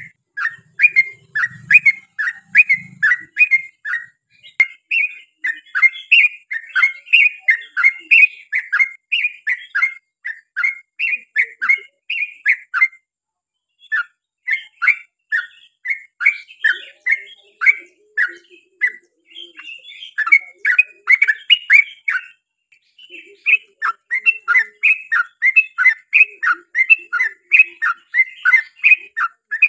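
Yellow-vented bulbul (trucukan) singing a long, rapid run of short chattering notes, several a second, broken by two brief pauses.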